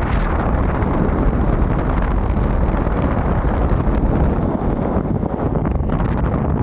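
Steady wind rushing and buffeting over the microphone of a moving motorbike, with road and engine noise underneath.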